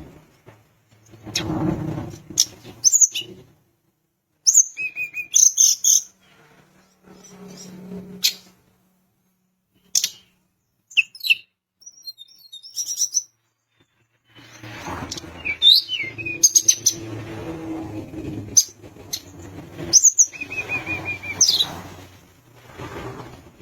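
Tledekan gunung songbird calling in short, sharp high chirps and quick trills, in bursts separated by brief pauses, over a low background rumble in places.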